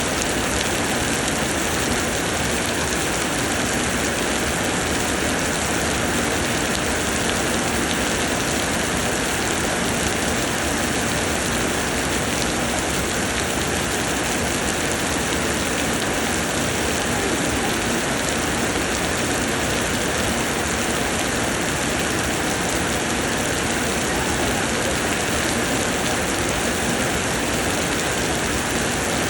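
Summer rain pouring down in a steady, even downpour, pattering on surfaces.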